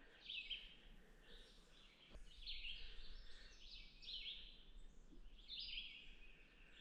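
Faint chorus of short, raspy animal calls repeating and overlapping, from wildlife in an upland swamp.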